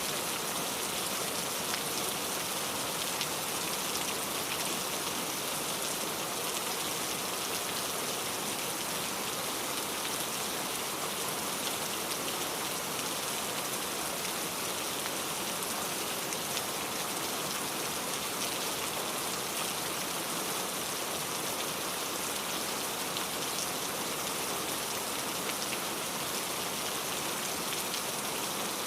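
Steady rainfall: an even hiss of rain with fine drop patter on a surface, unchanging throughout.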